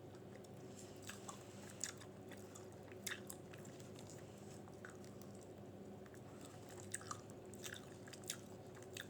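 Quiet chewing of a soft tortilla wrap filled with chicken, cheese and peppers: scattered small wet mouth clicks and smacks over a faint steady hum.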